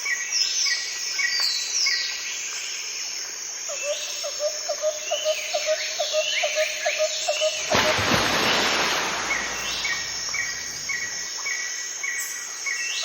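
Birds calling: a steady repeated chirp with falling whistled notes over it, and a quick run of lower pulsed calls in the middle. About eight seconds in, a loud rushing noise comes in for a second or two.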